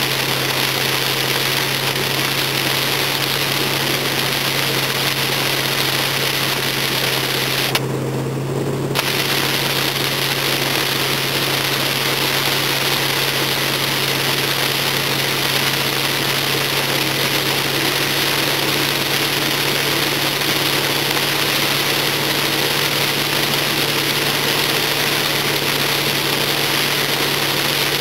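A car engine running steadily under a constant dense hiss of rain and water on wet road. The hiss briefly drops away for about a second roughly eight seconds in.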